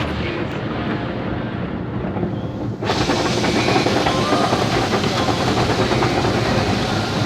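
Automatic car wash machinery running with a steady rumble. About three seconds in, a louder hissing rush comes in suddenly and keeps on.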